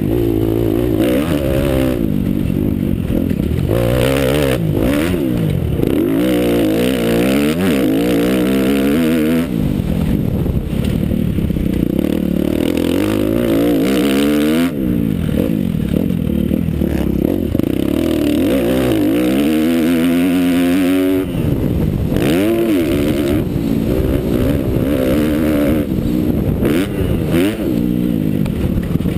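Motocross bike engine revving hard. Its pitch climbs and drops again and again as the throttle is opened and shut through the gears, with frequent knocks and rattles mixed in.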